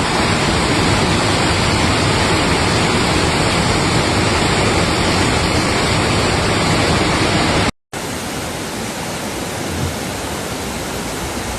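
Steady loud rushing noise of flood water and rain. It is broken by an abrupt cut about eight seconds in, after which a slightly quieter stretch of the same water noise follows.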